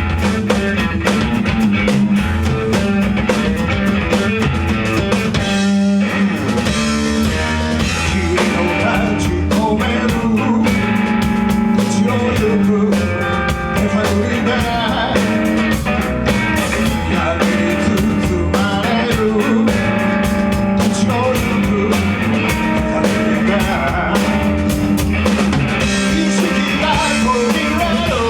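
Live rock band playing, with guitar and a drum kit, and a brief drop in the sound about six seconds in.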